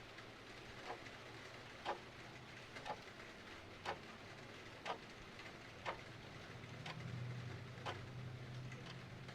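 Clock ticking steadily, about once a second, over a steady hiss of rain. A low hum swells in about seven seconds in.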